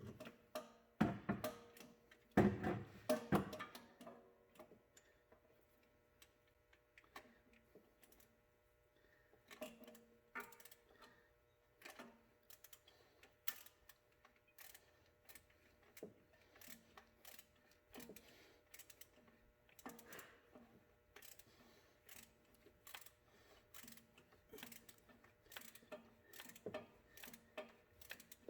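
Ratchet wrench clicking in short, regular strokes, a few clicks a second, as a bolt on a reinstalled alternator is slowly tightened in a cramped engine bay. A brief clatter of metal tools comes near the start.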